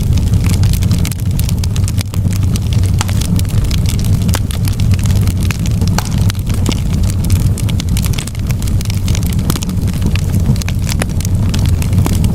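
Wood fire crackling in a fireplace: a steady low rumble with frequent irregular sharp pops and snaps.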